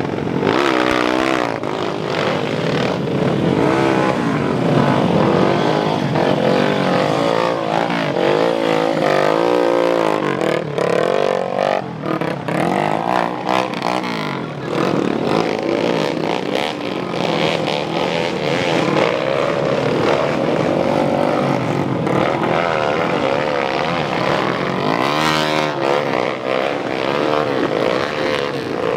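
Motocross dirt bike engines revving hard, their pitch rising and falling over and over as the throttle is worked.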